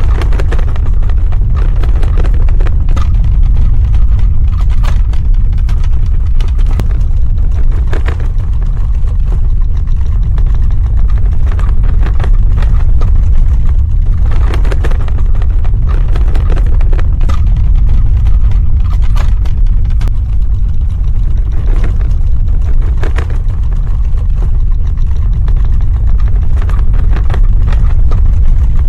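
Earthquake sound effect: a loud, continuous deep rumble with frequent small crackles and rattles scattered over it.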